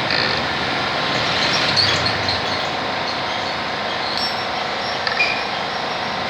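Steady rushing background noise with a few light clicks on top.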